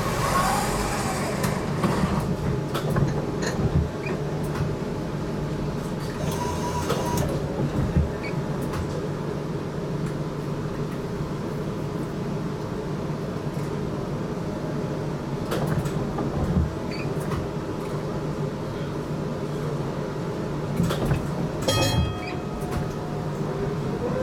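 Interior sound of a GTL8 articulated tram running along the track: a steady running hum with scattered clicks and knocks from the wheels on the rails. A denser cluster of clicks comes a couple of seconds before the end, then a rising motor whine as the tram accelerates.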